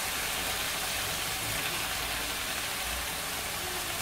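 Steady sizzle of onion paste frying in oil and butter on a high flame while marinated liver is poured into the hot pan.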